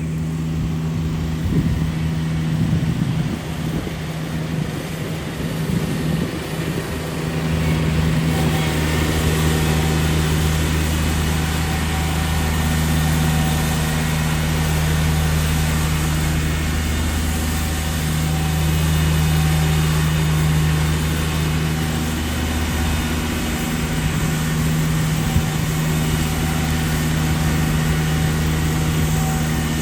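A vehicle engine idling: a steady low hum under a broad hiss of street noise.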